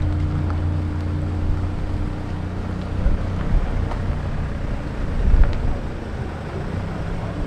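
Low-rev engine sound of sports cars driving slowly off: a Honda S2000's engine hums steadily at first, then a Mazda MX-5 rolls past close by, getting louder about five seconds in. Wind buffets the microphone.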